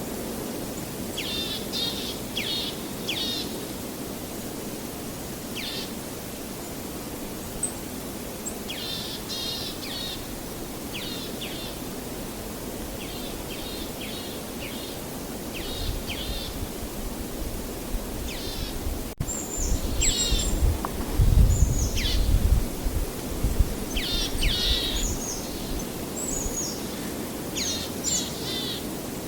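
Small birds chirping in quick groups of short high notes, repeated every second or two, over a steady low rushing background. About two-thirds in, a deeper rumble swells for several seconds and is the loudest sound.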